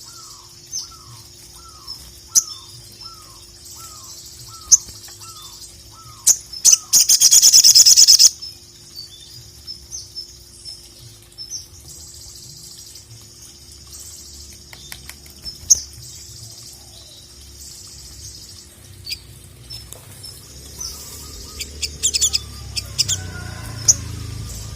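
Sogon (ruby-cheeked sunbird) singing: a busy run of high, thin chirps and sharp ticks, broken about seven seconds in by one loud, fast rattling trill that lasts about a second and a half. A lower, falling note repeats about twice a second through the first six seconds.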